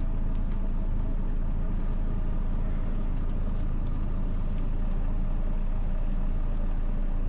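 Car engine running steadily, a low hum heard from inside the cabin.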